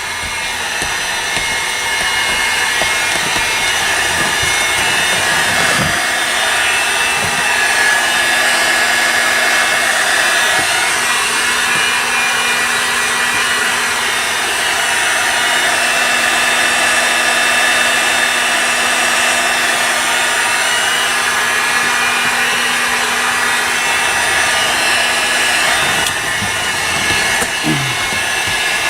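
Electric heat gun blowing hot air steadily, warming sound-deadening mat so it softens and presses into the roof beams.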